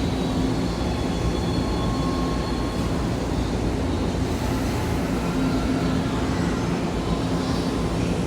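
Limited express Odoriko electric train pulling out of the platform: steady running and rolling noise with a low hum and faint motor whine.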